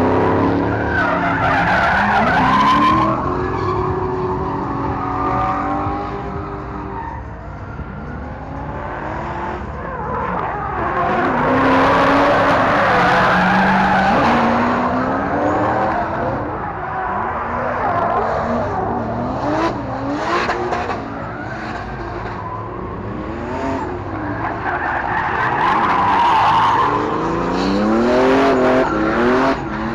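Drift cars sliding, their engines revving up and down while the tyres screech in long stretches. The tyre noise is heaviest at the start, around twelve seconds in, and again near the end.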